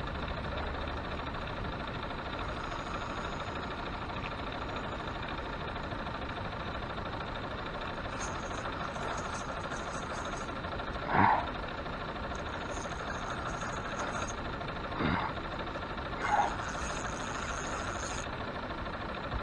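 A steady motor hum runs throughout. Three short, higher sounds stand out over it in the second half.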